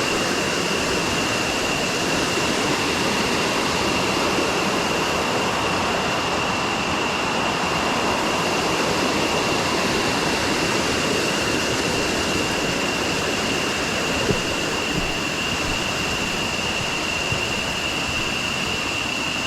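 Waterfall and river water rushing in a steady, loud roar, with a thin high-pitched whine held steady over it.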